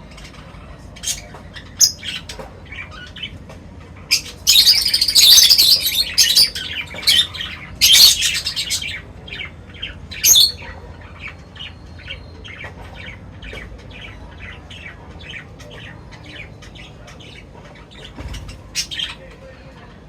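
Small birds chirping and squawking while feeding. Loud harsh squawks come in two bouts about four to nine seconds in, then a fast run of short chirps at about three a second.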